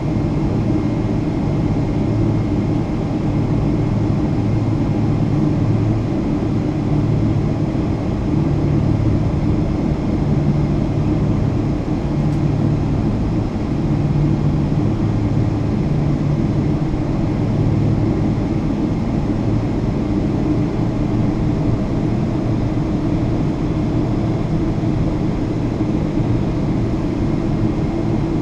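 Boeing 777-200 airliner's engines running at steady low power, a continuous rumble with a low hum that swells and fades every second or two.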